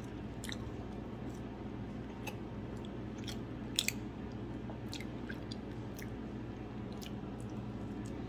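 Close-up chewing of a soft glazed doughnut: scattered wet mouth clicks, the loudest pair about halfway through, over a steady low hum.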